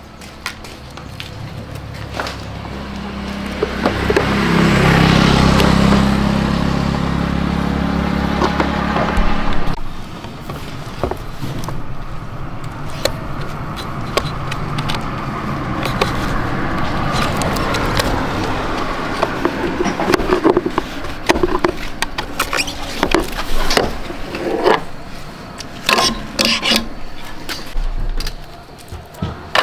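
Motorcycle engine running, growing louder about four to six seconds in, then cut off abruptly about ten seconds in. After it stops there are scattered metallic clicks and knocks of work on the bike.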